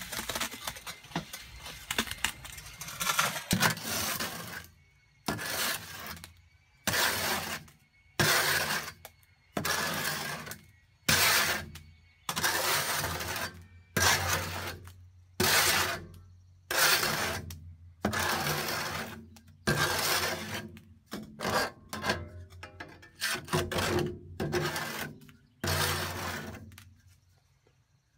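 Wet mortar mix sliding out of a tipped metal wheelbarrow for the first few seconds. Then a long series of scraping strokes, about one every second or so, as leftover mix is scraped out of the wheelbarrow's metal tray.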